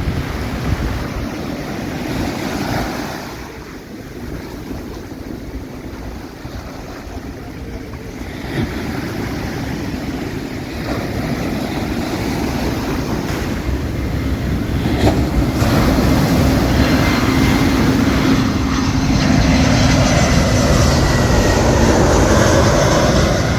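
Surf and wind on the microphone, then from about halfway through a jet airliner's engines grow steadily louder as it comes in low on its landing approach: a rumble with a steady whine over it, loudest near the end.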